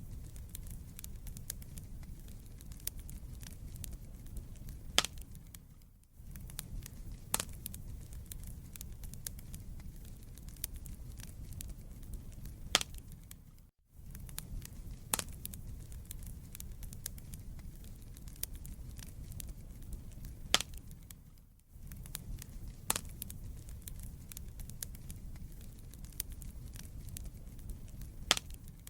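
Wood fire crackling in a fireplace: a steady low rumble of burning logs with sharp pops and snaps every couple of seconds. The sound dips briefly almost to silence about every eight seconds.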